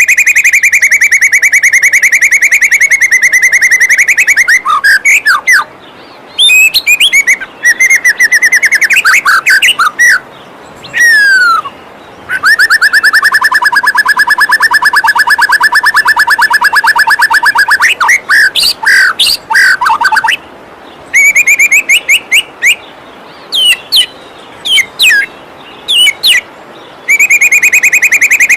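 Loud songbird song: long, very fast rattling trills and quick gliding whistles, broken by short pauses, over a steady rush of running water.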